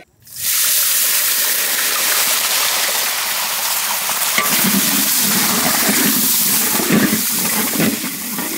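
Ground masala paste sizzling loudly as it hits hot melted butter in a large iron kadai, starting about half a second in. In the second half a wooden paddle stirs the frying paste, adding a coarser bubbling and scraping.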